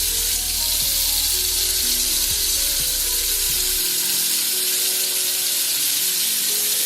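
Tap water running steadily into a sink, a loud even hiss, as a makeup sponge is rinsed under it. A low hum underneath stops about four seconds in.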